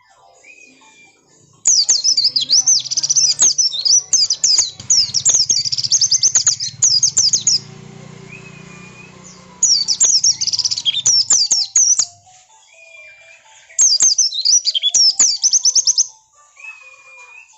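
White-eye (pleci) song: three bouts of rapid, very high twittering chirps, separated by short swooping whistled notes.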